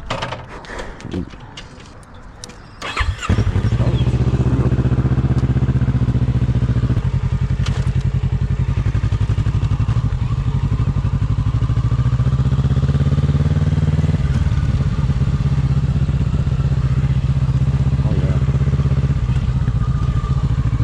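A few knocks, then a motorcycle engine starts about three seconds in and settles into a steady idle.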